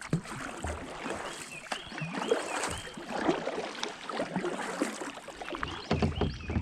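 Water splashing and sloshing with irregular knocks and rattles around a kayak as a hooked bass is fought and brought in alongside.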